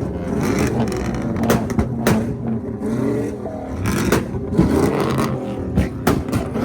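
Modified car engines revving hard, with the exhaust cracking and popping again and again: a flame tune firing backfires out of the tailpipe.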